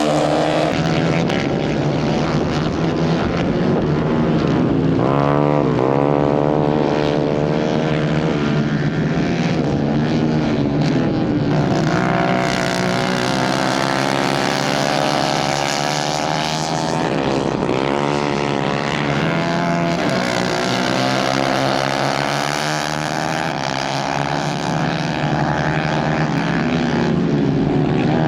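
Several 150 cc racing kart engines running together on track, their pitches overlapping and rising and falling as they rev up and ease off.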